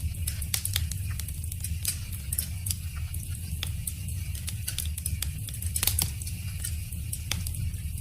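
Wood fire crackling: irregular sharp pops and snaps of burning wood over a steady low rumble of the flames. One louder pop about six seconds in.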